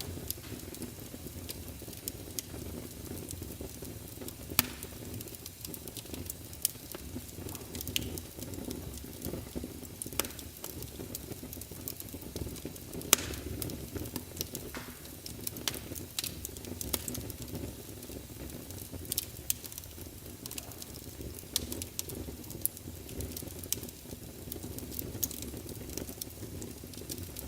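Wood fire burning in a fireplace: a steady low rumble of flames with irregular sharp crackles and pops from the logs, two of them louder, about 4.5 and 13 seconds in.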